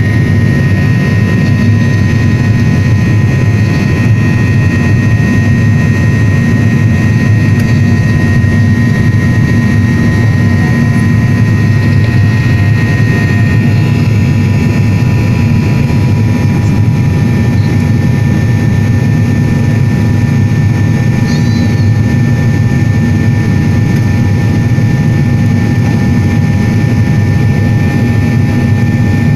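Steady jet-airliner engine drone heard inside the passenger cabin in flight: a dense low rumble with faint steady whining tones above it. One of the tones drops slightly in pitch about halfway through.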